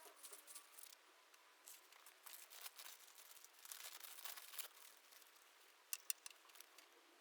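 Faint rustling and scattered light clicks of something being handled, with a few sharper ticks about six seconds in.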